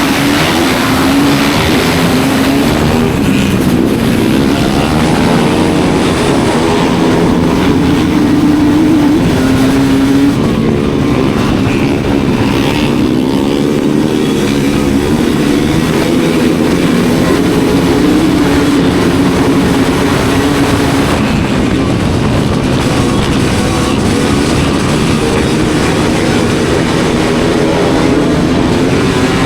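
Studded ice-racing motorcycles running hard in a race. The engine note is loud and continuous and keeps rising and falling as the throttle is worked.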